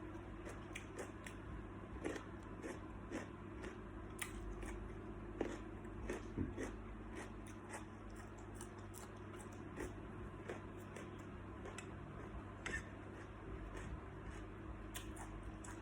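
Someone eating salt-baked shrimp: scattered small clicks and crunches of biting and chewing, with a few louder ones, over a steady low hum.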